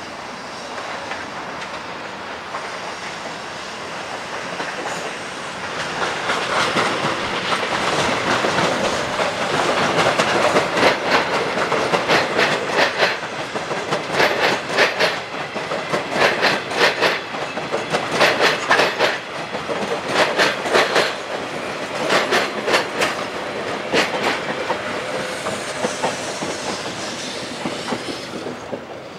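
Electric multiple-unit commuter train passing close by, its wheels clicking over the rail joints in quick clusters as the coaches go past. The running noise builds over the first few seconds and fades again near the end.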